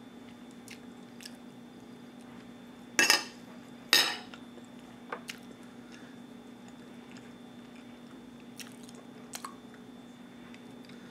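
Close-miked chewing, with two loud crunchy bites about a second apart, about three seconds in: a crunchy cheese cracker (Better Cheddars) being bitten and chewed. A low steady hum runs underneath.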